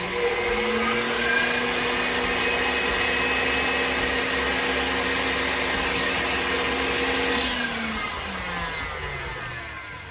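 Two KitchenAid stand mixers, a Professional model and a smaller standard one, running together at speed with a steady motor whine. About seven seconds in they are switched off with a click and the motors spin down, the pitch falling as they slow.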